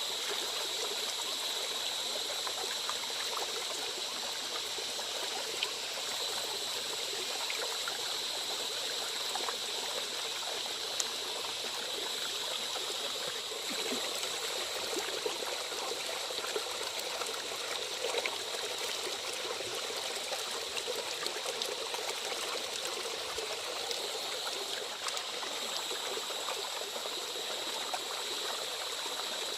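Heavy rain falling steadily: a dense, even hiss full of fine ticking drops, with a steady high-pitched band running underneath.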